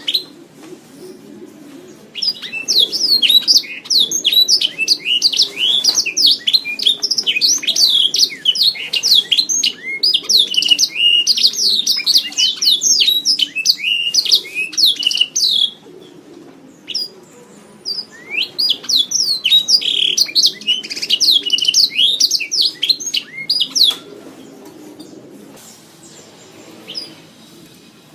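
Domestic canary singing: two long bouts of rapid, rolling trills and chirps, separated by a short pause about halfway through. The song stops about four seconds before the end.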